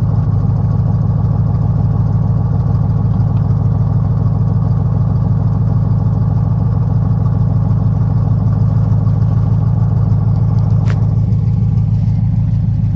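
1955 Chevrolet's small-block V8, which the owner believes is a 350, idling steadily just after a cold start. The owner calls the motor very tired.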